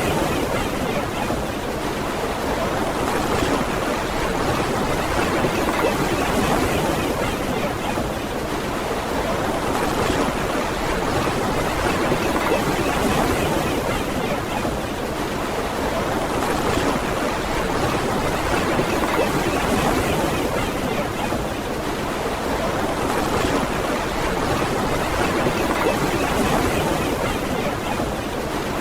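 Ocean surf washing onto a beach: a steady wash of water noise that swells and eases gently every three to four seconds.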